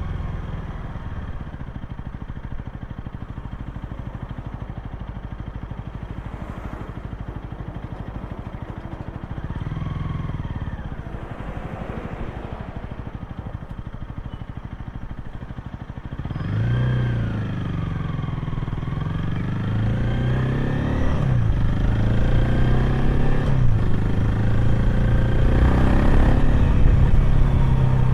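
Honda Rebel 250's single-cylinder engine heard through its exhaust while riding: a steady low-rev note, swelling briefly about ten seconds in. From about sixteen seconds it gets louder, the revs rising and dropping several times as the bike accelerates.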